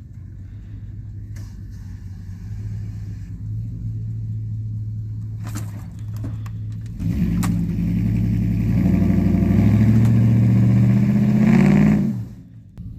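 A vehicle engine running, then revving hard under load for about five seconds from roughly seven seconds in, its pitch climbing, before it cuts off suddenly near the end. A couple of sharp knocks come just before the rev.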